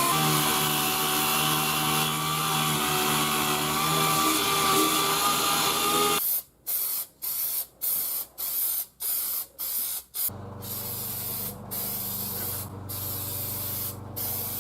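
A power sander running steadily with a whine, then an aerosol spray can sprayed in about seven short bursts, followed by longer sprays with a few brief pauses.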